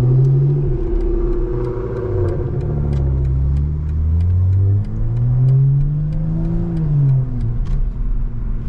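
Ford Mustang's engine revving up and easing back down twice, loud.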